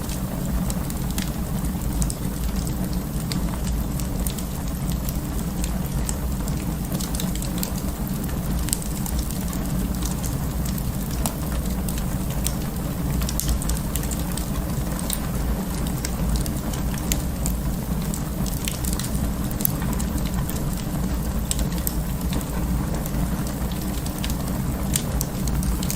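Wood fire crackling in an open fireplace: frequent small pops and snaps scattered over a steady low rumble of the flames.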